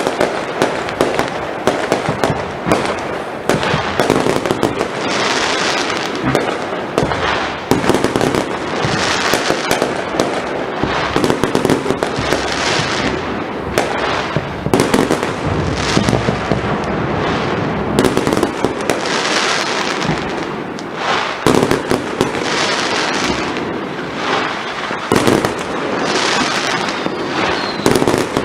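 Dense, continuous firework display: rapid bangs and crackling shell bursts, with a hissing crackle swelling up every few seconds.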